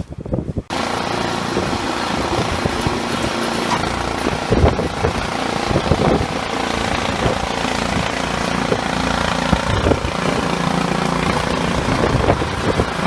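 A small engine running steadily, cutting in abruptly less than a second in.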